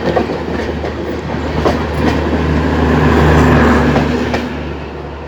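Passenger train running past on Indian Railways track, with a steady rumble and wheels clacking over rail joints. It swells to its loudest about three seconds in, then fades near the end.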